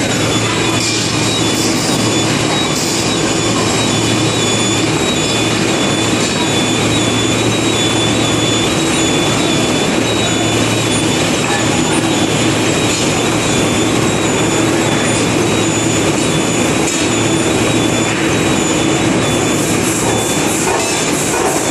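Forging furnace firing on producer gas from a gasifier: a loud, steady burner roar with a low hum and a steady high whine.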